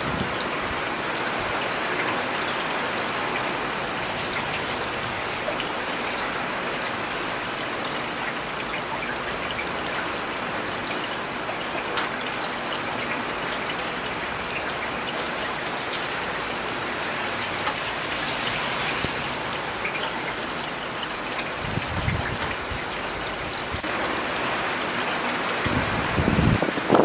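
Steady rain falling, an even hiss with scattered individual drops ticking on surfaces. A brief low rumble comes twice near the end.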